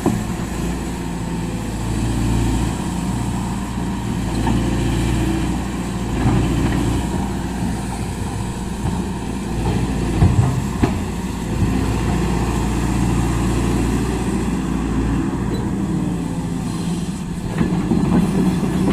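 SANY SY215C excavator's diesel engine running steadily with a low rumble, with a few short knocks about halfway through.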